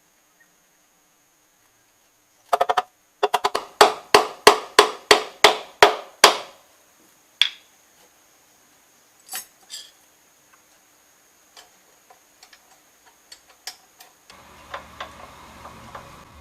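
Hammer blows in a workshop: a quick cluster of four, then a run of about ten evenly spaced strikes, roughly three a second, each ringing briefly, followed by a few scattered knocks. A low hum starts near the end.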